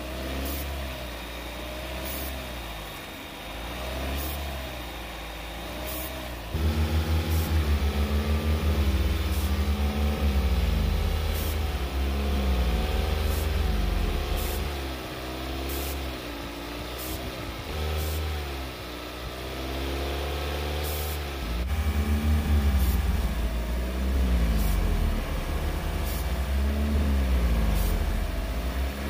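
Direct-injection car engine held at raised revs, around 2,500 to 3,000 rpm, while brake parts cleaner is sprayed into the intake in short bursts: its note dips and picks up again over and over as the spray goes in. Short hisses from the aerosol can come about once a second.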